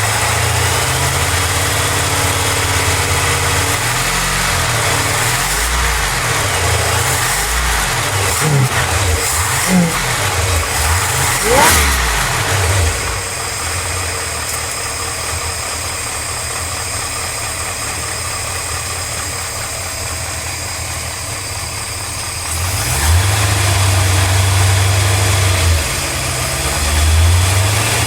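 An engine running, its revs rising and falling in pitch about a third of the way in, then settling to a steady idle before it gets louder twice near the end.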